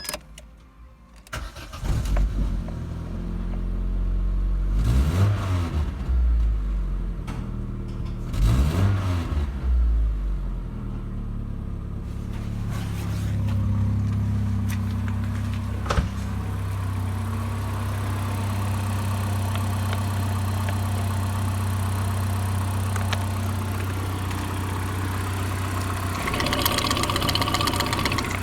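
Opel Astra G's 1.6-litre X16XEL four-cylinder petrol engine starting about a second in, revved up and back down twice, then idling steadily.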